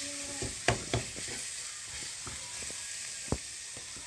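Spice masala paste frying in oil in a steel kadai with a soft, steady sizzle, and a few sharp clicks over it.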